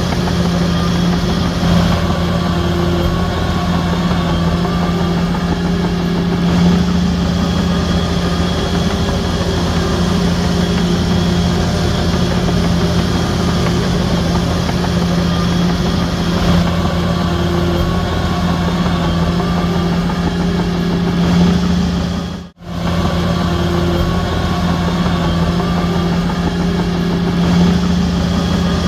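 Heavy bulldozer's diesel engine running steadily with a constant low hum. The sound cuts out for a split second about 22 seconds in.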